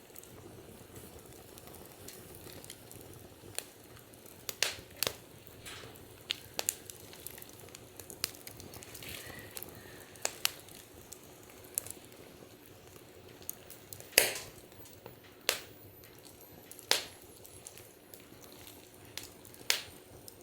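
Wood fire crackling, with scattered sharp pops from the burning logs, several of them loud, over a low hiss.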